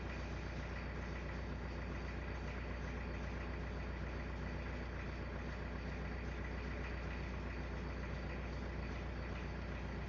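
A steady low rumbling drone with a fast flutter, unchanging throughout.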